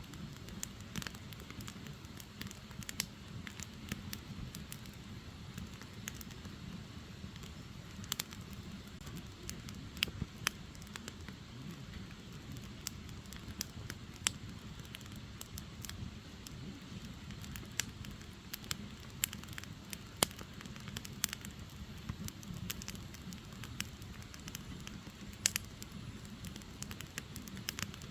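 Firewood burning: a steady low rush of flame with irregular crackles and occasional sharper pops from the logs.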